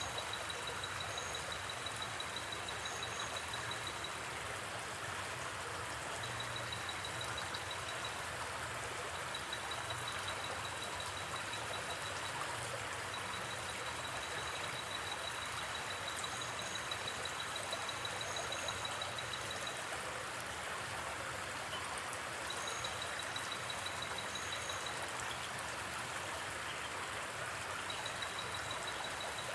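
Steady rush of a gently flowing river. Over it, a high, fast-pulsing trill starts and stops every few seconds, with brief high chirps in pairs now and then.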